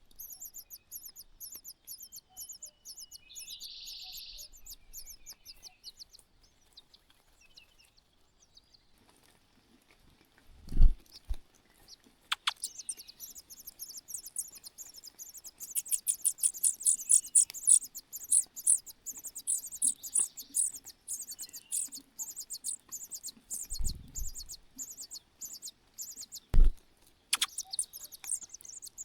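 Nestlings begging in the nest with fast, high-pitched chirps repeated many times a second. The chirping stops for a few seconds, then starts up again, louder, about halfway through. Two loud thumps come about a third of the way in and near the end.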